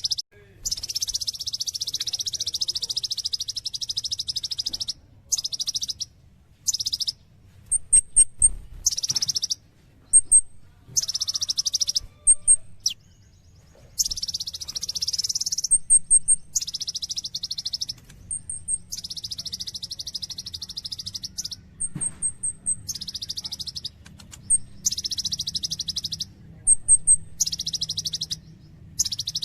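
A konin sunbird singing: repeated high, buzzy trilling phrases of one to four seconds each, broken by short gaps filled with quick clusters of three or four thin, higher chirps. A faint steady low hum lies underneath.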